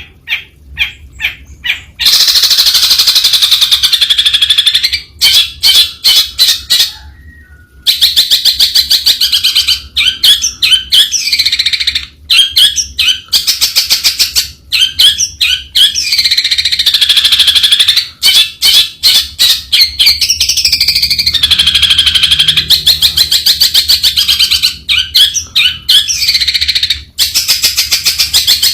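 Long-tailed shrike singing: long runs of rapid notes with rising and falling phrases, broken every few seconds by short series of separate clicking notes.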